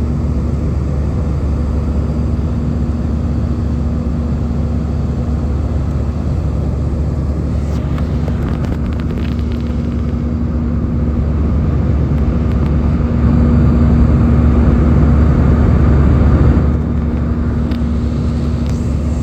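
Airbus A320 cabin noise during the climb: the jet engines and airflow as a steady drone with a low hum. The noise swells about two-thirds of the way through, then drops back abruptly near the end.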